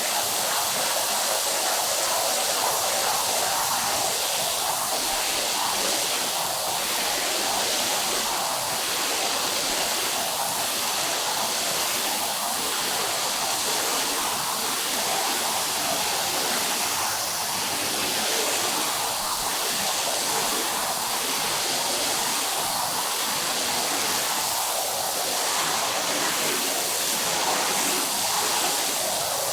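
Steady rushing hiss of water spraying onto a carpet as it is rinsed, faintly swelling every couple of seconds.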